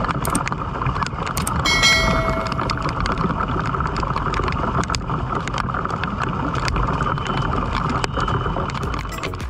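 Rain pattering on a tin roof: a steady wash of noise studded with sharp drop impacts. About two seconds in, a brief high-pitched tone sounds over it.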